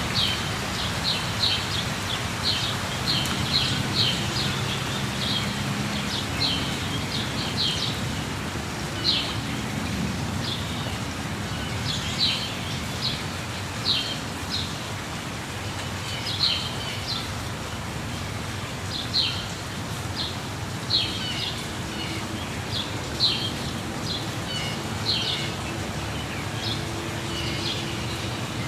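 Steady rush of a waterfall, with birds chirping over it in short high calls, several a second at first and then every second or two.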